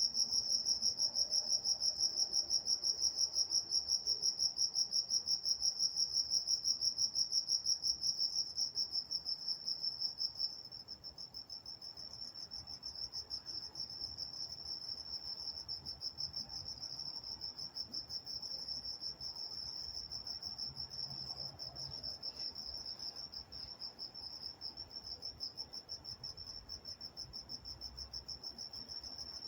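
Night-time crickets chirping in a fast, even rhythm of high chirps. About ten seconds in, the loudest chirping drops away, leaving a quieter chorus.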